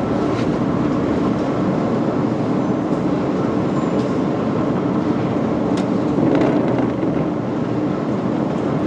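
Steady machine noise: a dense low hum with a few faint clicks.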